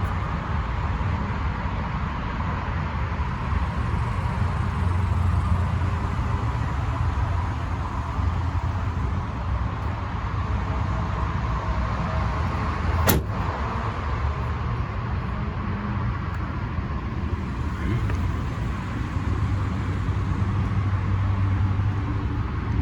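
Ford F-350's 6.7-litre turbo-diesel V8 running steadily, with a single sharp click a little past halfway through.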